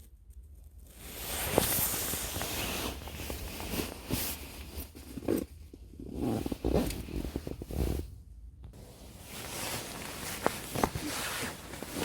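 Rustling and handling noise with scattered clicks and knocks, breaking off briefly twice.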